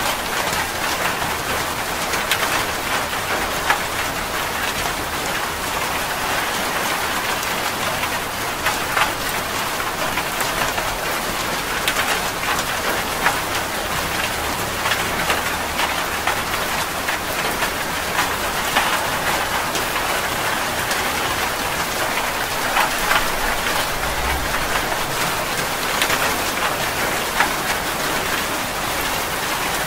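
Steady rain falling on a surface: a dense, even hiss with many individual drops splattering.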